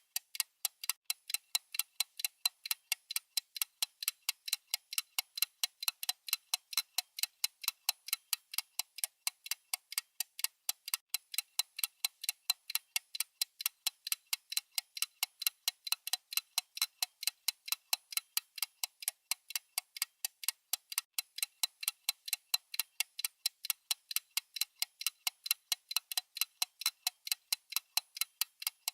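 Clock-style ticking sound effect of a countdown timer: crisp, evenly spaced ticks in a steady, unbroken rhythm, with alternately stronger and weaker ticks.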